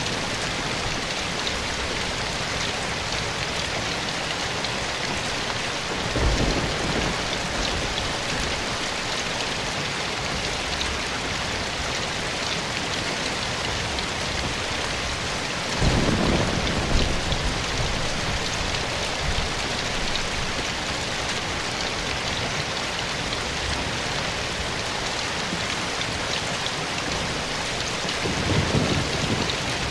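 Steady rain falling in a forest, an even hiss of many drops. Three brief low rumbles rise out of it: one about a fifth of the way in, the loudest about halfway, and one near the end.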